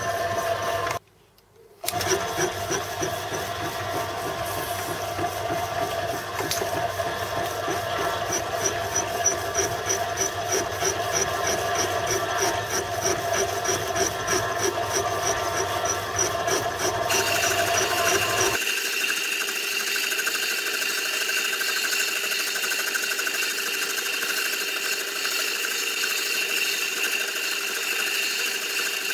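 A power tool running steadily as it takes a cut, with a fine rapid rhythm in its sound. It drops out briefly about a second in, and its sound thins out suddenly, losing the low end, about two-thirds of the way through.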